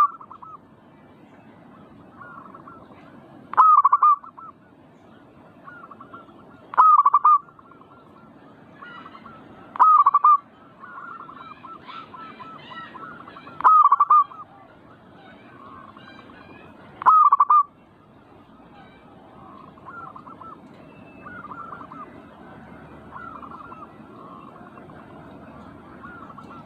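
Zebra doves (perkutut) cooing: a loud, short call repeats about every three seconds, five times, and stops a little past halfway, while fainter cooing goes on throughout.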